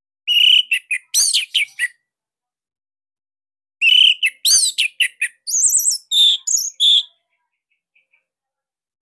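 Orange-headed thrush (anis merah) singing: two loud phrases of quick, sweeping whistled notes, the first lasting about a second and a half, the second about three seconds after a short pause.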